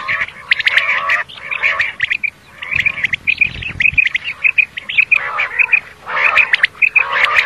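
Common quail calling: runs of short, high notes repeated several times a second, with lower, rougher calls mixed in at times.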